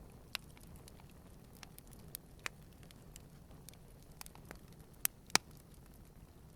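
Campfire burning, with scattered sharp crackles and pops of burning wood over a faint low rumble; the two loudest pops come close together about five seconds in.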